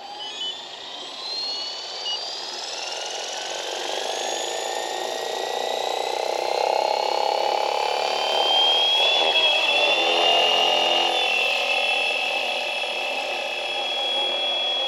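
Fly Wing 450L electric RC helicopter's brushless motor and rotor spooling up: a whine rising slowly in pitch and getting louder over about nine seconds, then holding a steady pitch at flight speed.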